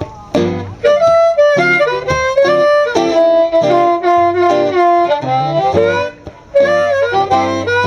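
Blues harmonica solo over a low bass accompaniment, a run of held and bending notes with short gaps between phrases.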